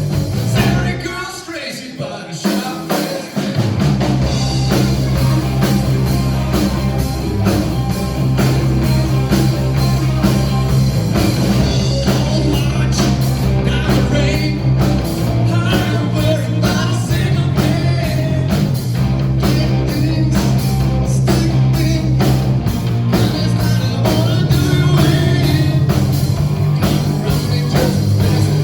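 A blues-rock band playing, with a singer. About a second in, the bass and drums drop out for a couple of seconds, then the full band comes back in.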